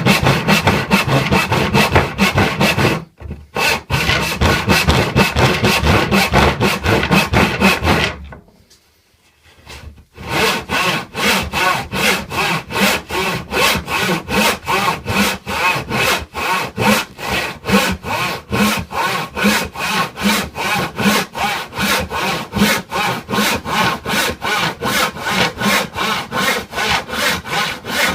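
Hand saw cutting through wood in steady back-and-forth strokes, about two to three a second. It breaks off briefly about three seconds in, stops for a couple of seconds around eight seconds in, then resumes at the same pace.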